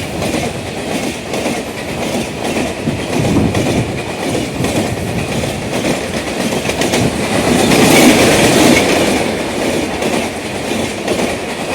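Passenger train coaches running on the track: a steady rumble with the clickety-clack of wheels over rail joints, growing louder about eight seconds in.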